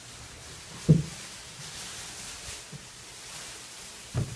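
Two short dull thumps over quiet room noise, a louder one about a second in and a softer one near the end.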